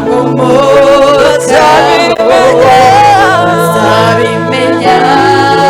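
Voices singing a Kinyarwanda gospel worship song with a wavering vibrato, over held low accompaniment notes that change every couple of seconds.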